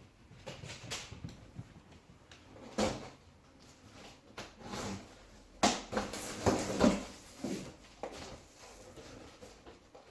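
Packaging being handled and opened: scattered knocks and scrapes, with a cluster of louder knocks a little past halfway.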